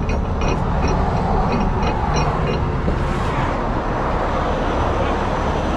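Heavy-duty tow truck's diesel engine running steadily, with a rapid run of light ticks, about three a second, in the first two seconds.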